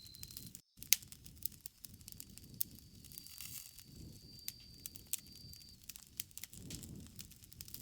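Bonfire crackling: sharp pops and snaps of burning wood over a low rumble of flames. The sound drops out for a split second just under a second in.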